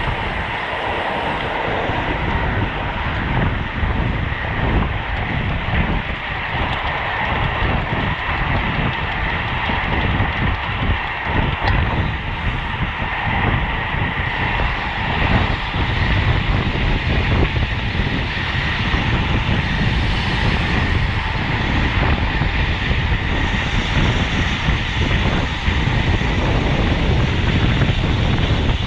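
Wind rushing over the microphone of a camera riding on a road bike at race speed: a steady rush with a fluttering low rumble from the buffeting.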